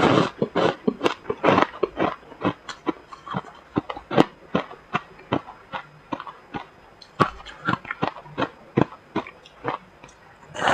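Close-up chewing of freezer frost: a crunching bite at the start, then many crisp, irregular crunches a few per second as the soft ice is chewed, with another bite right at the end.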